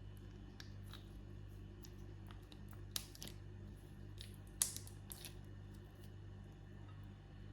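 Scissors making a few short, sharp snips, the loudest about three seconds in and another about a second and a half later, over a low steady hum.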